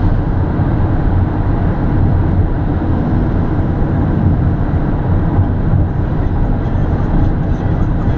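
Mercedes C63 AMG driving at a steady speed: a constant low rumble of engine and road noise, with no revving.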